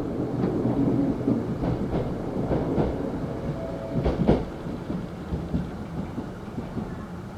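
Nose Electric Railway 3100 series electric train running on the rails at the station: a steady rumble with scattered wheel knocks, the loudest about four seconds in.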